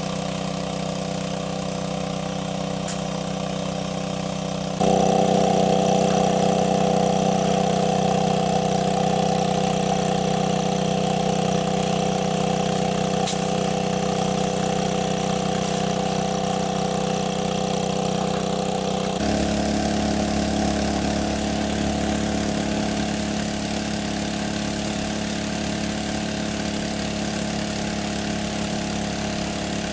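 A small engine running steadily at a constant speed. The sound shifts abruptly twice, getting louder about five seconds in and changing pitch about two-thirds of the way through.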